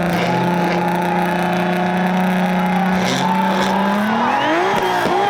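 A car engine held at a steady high drone, then revved up sharply about four seconds in, its pitch climbing and dipping in quick swings.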